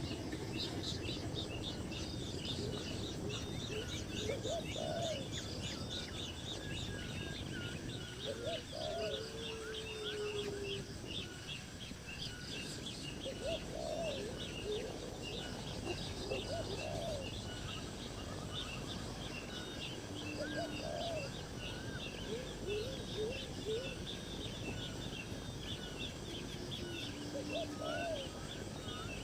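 Birds chirping: a dense run of rapid high chirps throughout, with a lower rising-and-falling call repeating about every three to four seconds.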